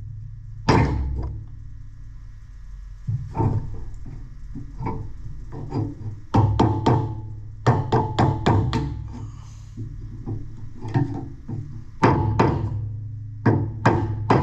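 Hammer tapping in quick bursts of three or four sharp strikes, over a steady low hum, working at a seized steering wheel that will not come off its shaft.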